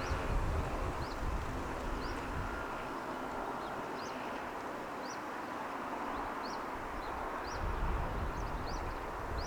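Outdoor city ambience: a steady distant traffic hum with a low rumble that swells in the first second and again near the end. Over it a small bird repeats a short high rising chirp, about one to two a second.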